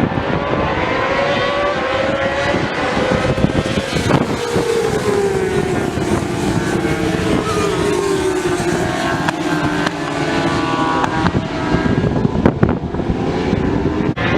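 Several racing motorcycles, 1000cc and 600cc sport bikes, running hard on track, their engine notes overlapping. One bike's note falls steadily in pitch over several seconds as it goes by.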